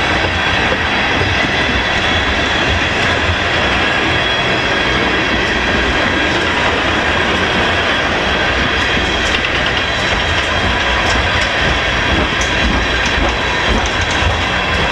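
Freight train of tank cars rolling past close by: a steady, loud rumble of steel wheels on the rails that does not let up.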